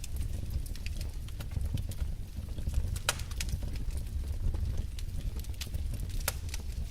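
Wood fire burning in a fireplace: irregular crackles and sharp pops from the burning logs over a steady low rumble of the flames, with two louder pops about three seconds in and near the end.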